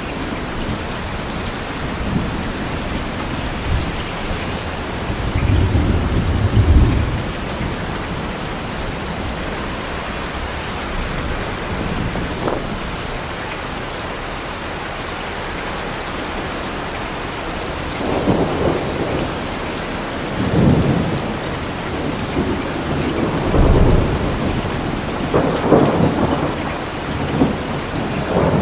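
Steady heavy rain with thunder: a low rumble swells about five to seven seconds in, then after a calmer stretch the thunder returns from about eighteen seconds on in several rolling peals.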